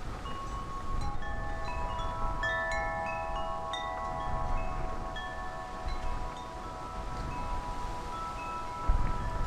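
Wind chimes ringing in the breeze, with a flurry of strikes in the first few seconds whose notes ring on and overlap. Wind rumbles on the microphone, with a stronger gust near the end.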